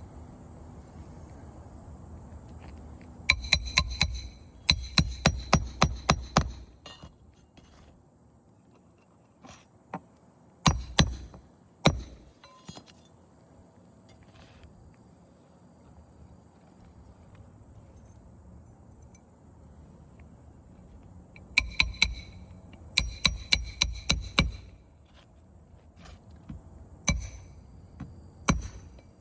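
Hammer driving roofing nails into asphalt shingles: two runs of quick, ringing metal-on-metal strikes, several a second, with a few single blows between them.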